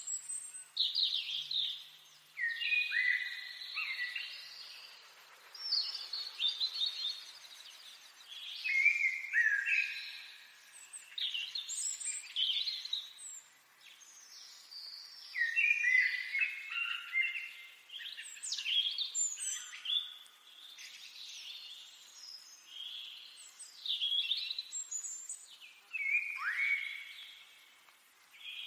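Birds chirping and singing in a continuous busy chorus of short whistles and trills, some sliding down in pitch.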